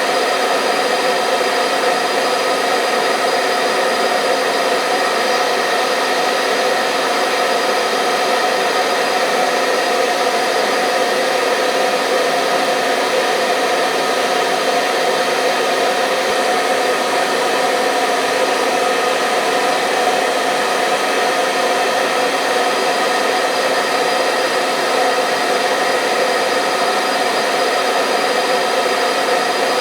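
Hair dryer running steadily: a constant rush of air with a steady motor whine running through it.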